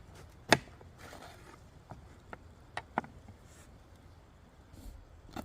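Knife cutting up a green pepper: a sharp click about half a second in, then a few lighter taps between two and three seconds in.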